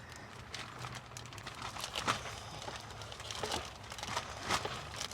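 Irregular light knocks and clicks of cooking gear and containers being handled, over a low steady hum.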